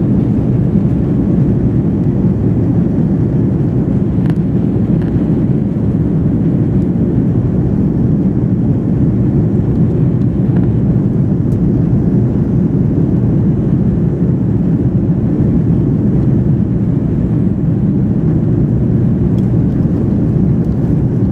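Airbus A330-300 during takeoff: a loud, steady low rumble of jet engines and airflow that holds unchanged throughout.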